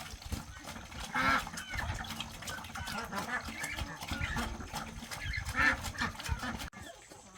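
Farm poultry calling: two loud, short calls, about a second in and again a few seconds later, over other scattered bird sounds, with the sound cutting off abruptly near the end.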